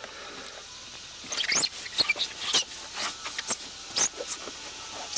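A rag wiping and rubbing the fiberglass of a jet ski's hull: a run of quick, uneven scratchy strokes with a few high squeaks.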